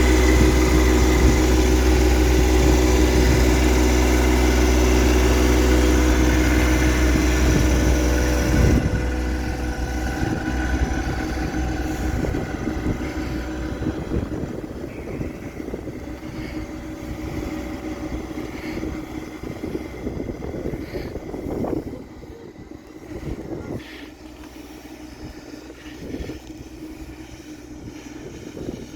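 Tractor engine running steadily and loudly, then dropping abruptly in level about nine seconds in and growing gradually fainter over the rest.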